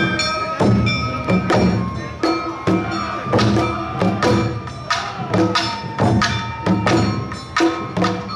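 Awa Odori festival band playing the dance's two-beat rhythm: taiko drums and the ringing kane hand gong struck in a steady pulse, with flute-like held and bending tones above.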